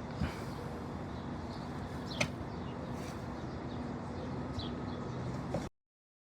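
Steady outdoor background noise with faint bird chirps and two sharp knocks about two seconds apart; the sound cuts out abruptly near the end.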